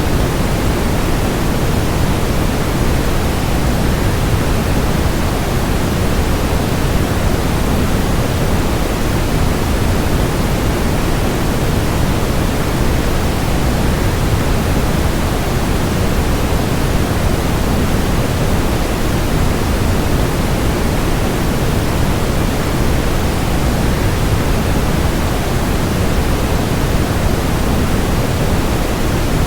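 Steady rushing noise of a waterfall blended with pink-tinted white noise, deep and even, with no changes or distinct events.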